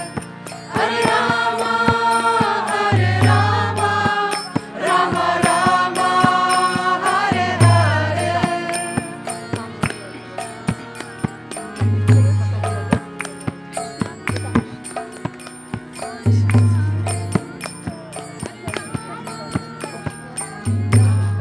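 Kirtan: a group chanting a mantra over hand cymbals and a deep drum beat that falls about every four and a half seconds. The chanting stops about nine seconds in, leaving the cymbals and drum playing on.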